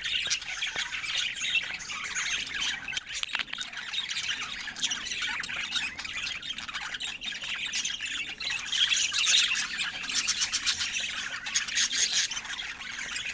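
Budgerigars chattering: a busy, unbroken run of short chirps, warbles and sharp clicks.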